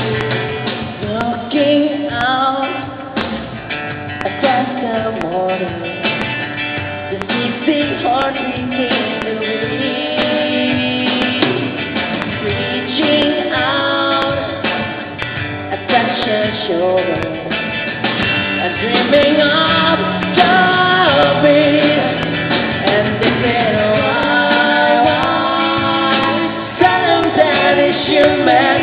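Rock music: a band with electric guitar and drums playing, with a singing voice carrying the melody.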